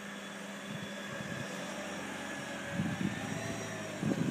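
Ford SUV's engine running as it drives slowly through soft desert sand: a steady hum whose pitch rises slightly near the end, with two brief low rumbles about three and four seconds in.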